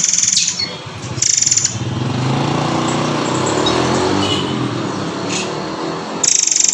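Bird-call recording: a rapid high trill that breaks off for about five seconds while a lower, noisy sound like a passing motor vehicle swells and fades, with a couple of short high bird notes in the middle.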